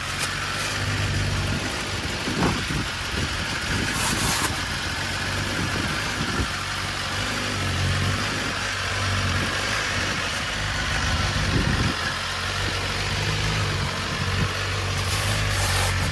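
A motor vehicle's engine idling, its low hum swelling and easing a little, under a steady hiss.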